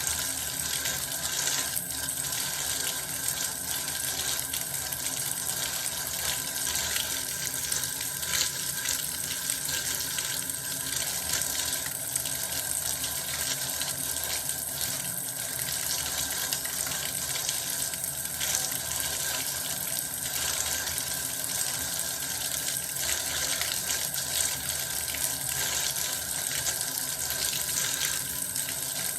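Bath water running steadily from a tap, a continuous even pouring with small irregular splashes.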